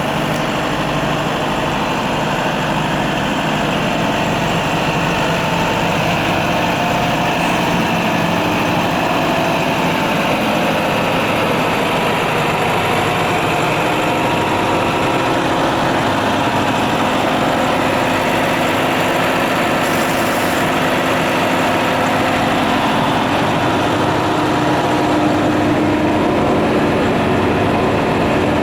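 Engine on a Renault Midlum 150 rescue truck idling steadily. A steadier tone grows stronger near the end.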